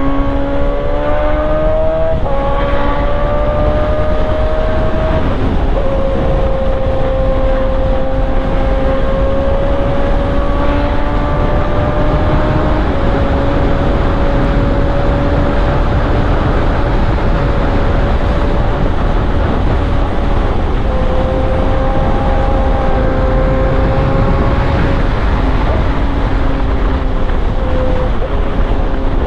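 Yamaha R1 inline-four motorcycle engine running at steady cruising revs under a rider, its note creeping up slowly and dipping back a few times, over a low rush of wind noise.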